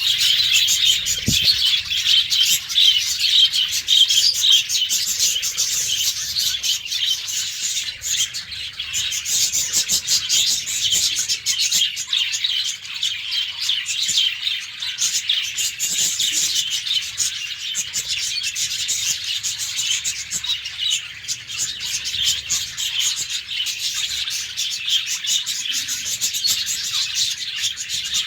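A flock of caged budgerigars chirping and chattering together: a dense, continuous twittering of many quick, high chirps.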